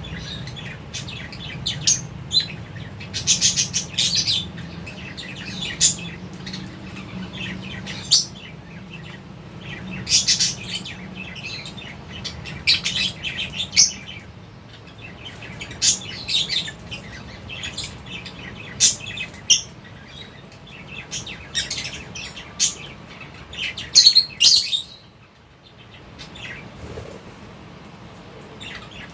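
A flock of lovebirds chirping, with many short, sharp, high-pitched calls coming in clusters and a brief lull near the end, over a low steady hum.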